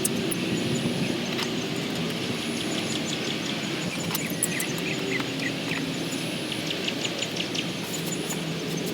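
Outdoor background: birds chirping several times over a steady hum.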